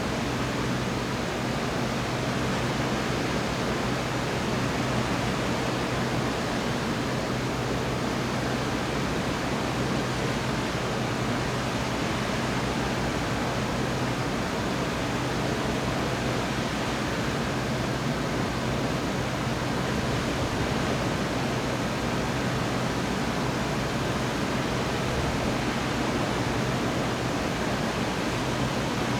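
Steady, even rushing noise with a low hum underneath, unchanging throughout, with no thunderclaps.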